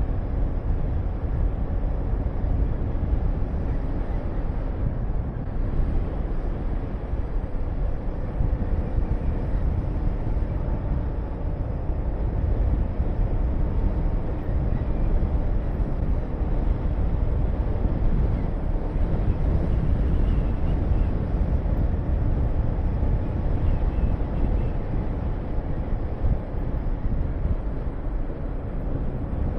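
Honda VTR250's V-twin engine running steadily under way, mixed with heavy wind rush on the camera microphone.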